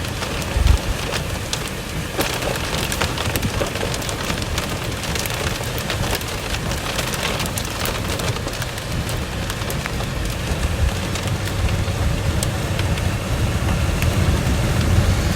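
Rain pelting a moving vehicle: many sharp drop impacts over a steady low rumble of the road and engine, with one heavier knock about a second in.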